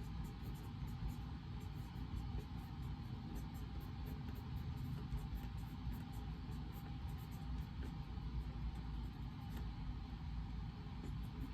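Steady reading-room background noise: a low rumble and an even hiss, with faint rapid ticks in the highs.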